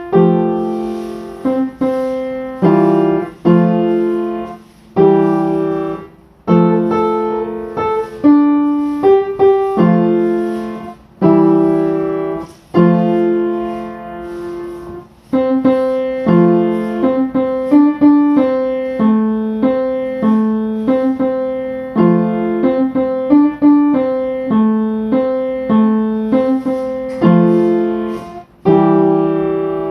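Piano music: slow chords and melody, each note struck and left to fade.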